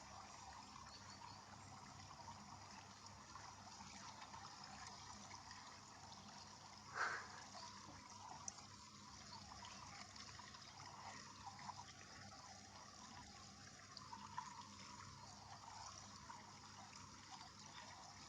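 Near silence: a faint steady hiss, with one brief soft sound about seven seconds in.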